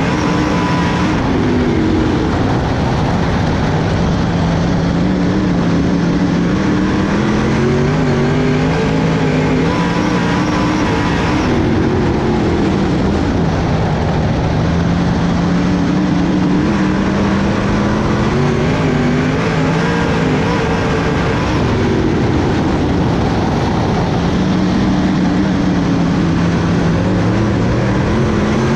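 Dirt-track race car engines racing, their pitch climbing and dropping over and over every several seconds as the throttle opens down the straights and lifts for the turns.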